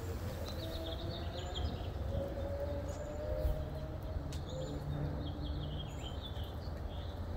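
Small birds chirping in short, repeated high calls over a steady low background rumble.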